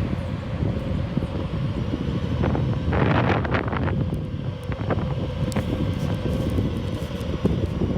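Wind rumbling on the microphone of a rider moving along on an electric unicycle, with a faint steady whine underneath. There is a brief, louder rush of noise about three seconds in, and a few light ticks after it.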